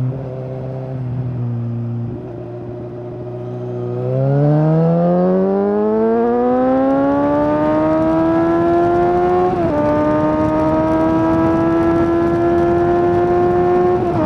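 Suzuki GSX-S750's inline-four through a Yoshimura SQ11 exhaust with no dB killer, holding low steady revs for about four seconds, then accelerating hard with the revs climbing. A quick upshift a little under ten seconds in briefly drops the pitch before it climbs again more slowly, and another shift comes at the very end.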